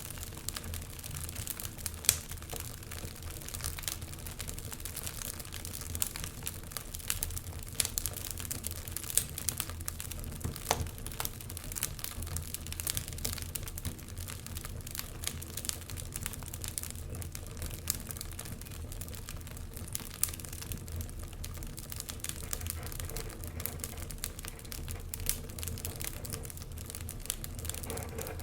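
Wood fire in a fireplace crackling, with irregular sharp pops and snaps, a few louder ones, over a steady low rumble of the flames.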